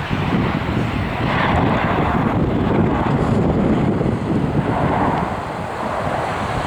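Airliner engines rumbling steadily as the aircraft passes, with wind buffeting the microphone.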